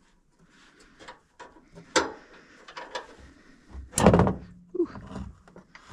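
Clicks and knocks of a propane cylinder being disconnected from a camp stove and stowed, with a sharp click about two seconds in and a heavier thump about four seconds in.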